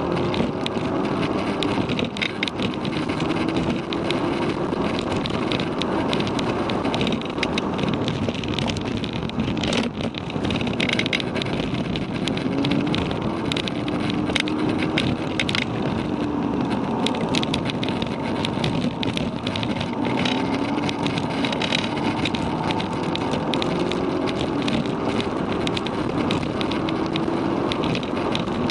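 Volkswagen Golf GTI Mk6's APR Stage 1-tuned turbocharged 2.0-litre four-cylinder engine heard from inside the cabin while driven hard on track. The engine's pitch climbs and drops back several times, over steady road and wind noise.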